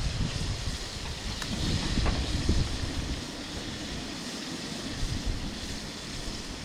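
Strong wind buffeting the microphone: a gusting low rumble that eases after about three seconds, over a steady hiss, with a couple of faint clicks early on.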